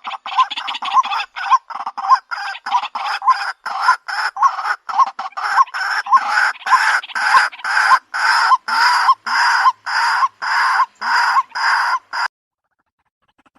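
White-breasted waterhen calls: a long run of repeated harsh 'kwak' notes, short and about three a second at first, then longer and slightly slower, stopping suddenly about twelve seconds in.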